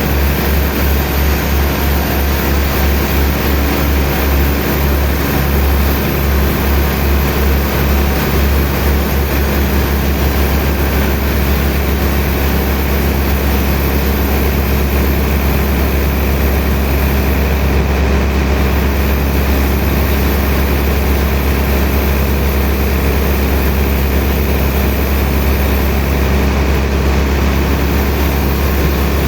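Heavy machinery running steadily with a loud, deep hum that throbs for the first several seconds and then evens out.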